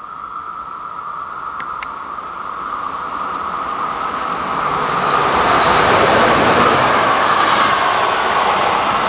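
Electric locomotive hauling a coach through a station: a steady whine over rolling wheel-on-rail noise that builds as it approaches, is loudest about six seconds in as it passes, then eases a little.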